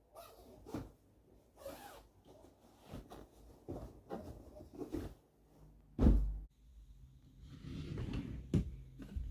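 Irregular light knocks and clunks of things being handled around the home, with one louder thump about six seconds in.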